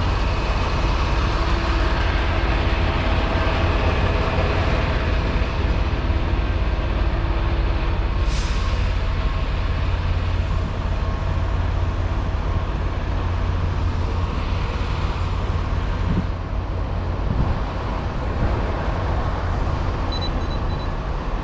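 A semi truck running, heard from inside the cab as a steady low rumble. A short hiss comes about eight seconds in, and a few faint short high beeps near the end.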